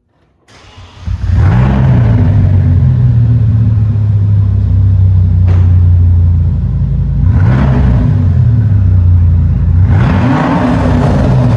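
Audi RS6's twin-turbo V10 with its mufflers disconnected, starting up about a second in and then idling loud and deep. The throttle is blipped three times, each a short rise and fall in revs.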